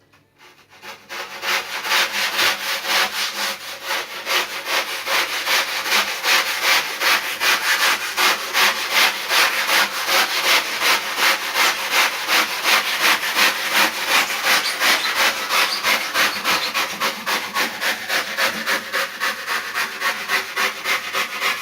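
Hand rip saw cutting through cured poured foam, in steady back-and-forth strokes about two a second.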